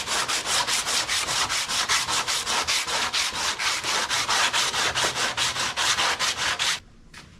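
Sandpaper on a sanding block rubbed quickly back and forth over sharp edges, about five or six rasping strokes a second, stopping abruptly near the end.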